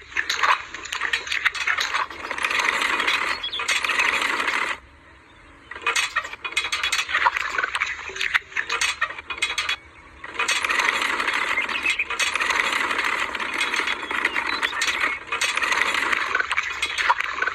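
A DIY mini tractor and its trolley rattling and clinking with a continuous metallic clatter as they move, with no low engine note. The clatter stops for about a second around five seconds in and briefly again around ten seconds.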